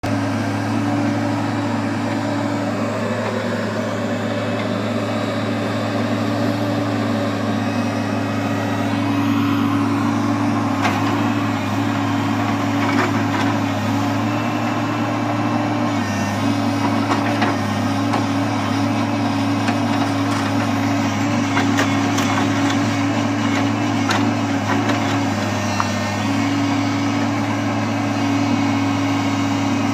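Log truck's diesel engine running steadily at one pitch, with a few light knocks and clanks scattered through the middle stretch.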